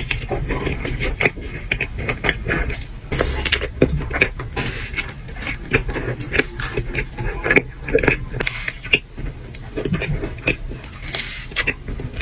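Close-miked chewing of a cookie: a steady run of irregular mouth clicks and smacks.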